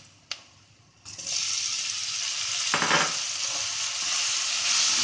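Chopped tomatoes hitting hot oil and onions in an aluminium kadai, which sets off a sudden, steady sizzle about a second in. A steel ladle scrapes and stirs through the pan, loudest about three seconds in.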